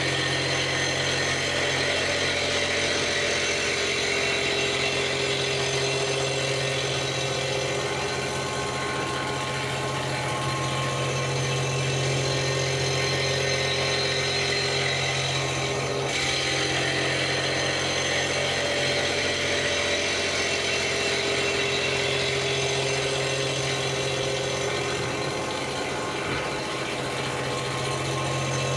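CNC milling machine running steadily while machining a cast pump volute: an even low hum with steady higher tones and cutting noise over it.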